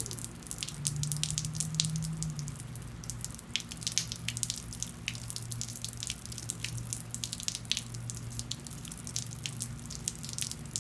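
Rainwater dripping and splashing in irregular single drops, over a steady low hum.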